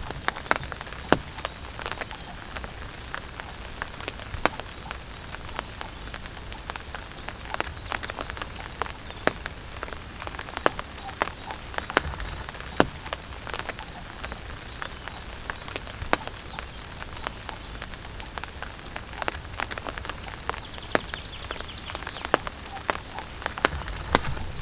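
Rain falling on a tarp shelter: a steady patter with irregular sharp taps from heavier single drops.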